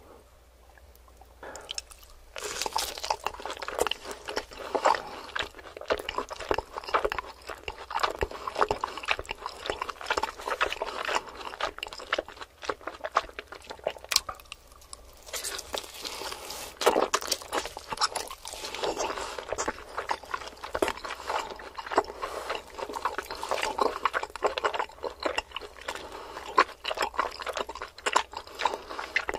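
Close-up eating sounds: a thick slice of roast meat with a browned crust being bitten and chewed, wet chewing full of sharp little clicks. It starts about two seconds in and eases briefly about halfway.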